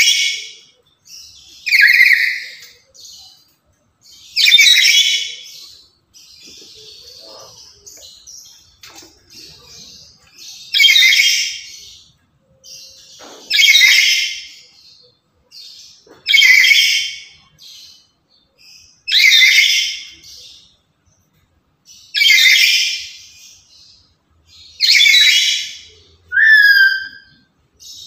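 Black-capped lory giving loud, harsh screeching calls, one about every two to three seconds, with a short whistled note near the end.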